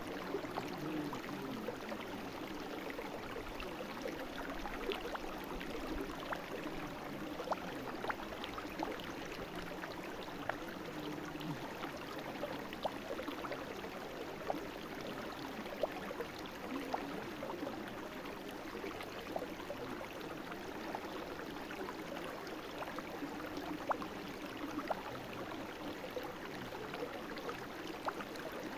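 Small brook babbling: a steady rush of flowing water with frequent small splashes and gurgles.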